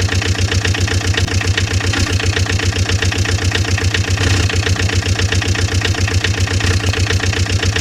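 Engine idling steadily with a fast, even beat, introduced as the JCB being started.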